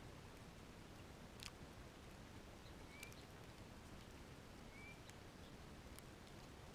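Faint short bird chirps, twice, over a steady low hiss, with a few faint clicks.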